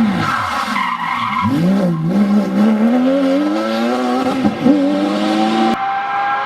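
Porsche 911 GT3 RS flat-six engine at full effort: the revs fall sharply, then climb repeatedly through the gears, with a brief dip at an upshift a little over four seconds in. Near the end the sound cuts abruptly to another, steadier engine note.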